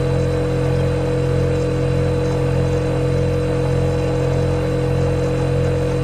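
Refrigerator compressor running with a steady low hum and a constant higher whine over a faint hiss.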